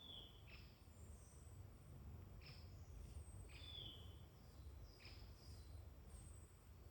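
Faint birdsong: several small birds giving short, very high thin calls and brief falling whistled notes every second or so, over a low steady rumble.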